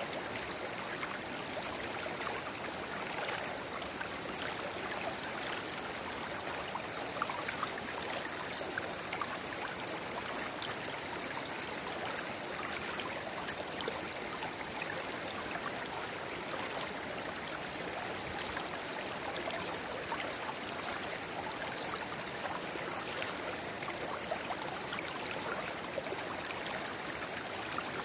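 Shallow river water babbling steadily where a small spring-fed rivulet runs into the main current, with many small splashes and drips throughout.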